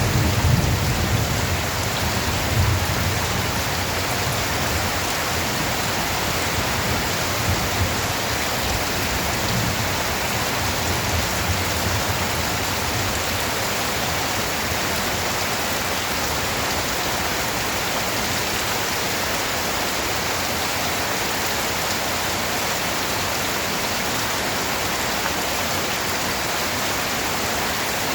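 Steady, heavy rain falling in an even hiss. A low rumble of thunder dies away over the first dozen seconds.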